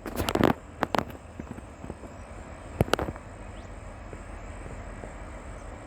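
Diesel freight locomotive rumbling low and steady, with a few sharp knocks near the start and about three seconds in.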